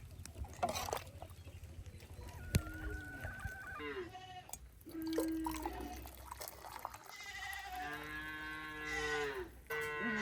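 Small livestock bleating several times, with one long, wavering call about eight seconds in and shorter calls before it.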